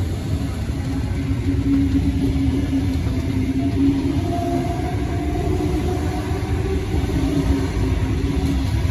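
Sydney Trains double-deck electric train passing close by: a steady, loud rumble of wheels on the rails with a low hum that wavers in pitch.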